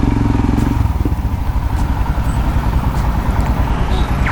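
Royal Enfield Himalayan's 411 cc single-cylinder engine running while the bike is ridden. Its note eases off about a second in and picks up again near the end.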